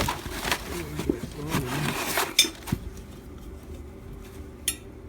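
Small hard objects being handled on a workbench: scattered light clicks and clinks, a few sharp ones about halfway through and another near the end.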